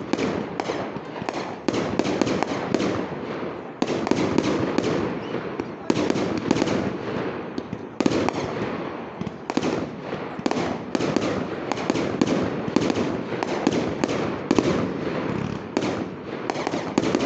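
Fireworks display: aerial shells bursting in quick succession, several bangs a second, with their echoes running together into a continuous rumble.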